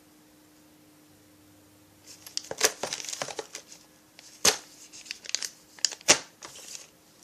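Plastic parts bags crinkling and rustling as they are handled, starting about two seconds in, with three sharp clicks among the rustling.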